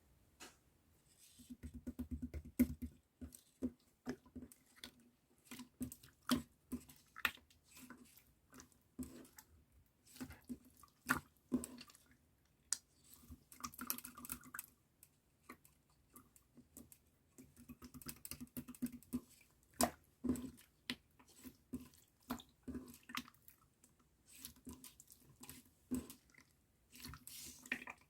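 Clear slime being squished and pressed by hand, giving irregular wet clicks and squelches several times a second.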